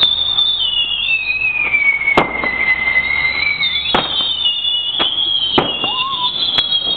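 Whistling fireworks screeching without a break, several shrill whistles overlapping, one sliding down in pitch and then jumping back up, with about five sharp firecracker bangs going off among them.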